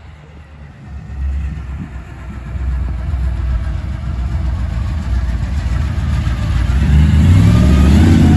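A car engine growing steadily louder as it comes closer, then revving up with a rising pitch near the end.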